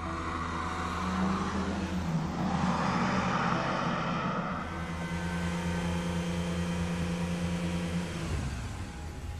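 Audi R8 sports car's engine as the car drives up, louder over the first few seconds, then a steadier hum that eases off near the end as it pulls up.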